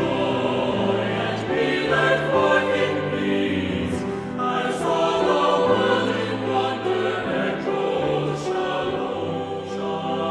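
A choir singing a hymn with accompaniment, in sustained held chords.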